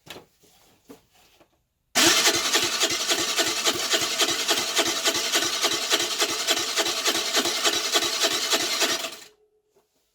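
Electric starter cranking the Baotian Tanco moped's 50cc four-stroke engine for about seven seconds, a steady churn pulsing about five times a second, without the engine firing; it starts and stops abruptly. The engine is flooded, its spark plug wet with fuel, and will not start.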